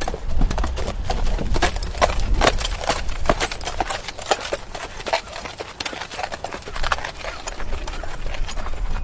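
Horse walking, its hooves clip-clopping in an uneven run of sharp strikes, several a second, over a low rumble.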